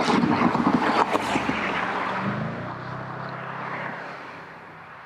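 A car's exhaust, loud as it passes close by under power, then fading as the car drives off into the distance.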